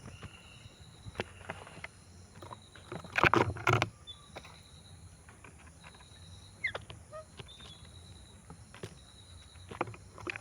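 A flock of birds feeding: scattered pecking taps and rustling, loudest in a short cluster about three seconds in, with a few brief faint chirps.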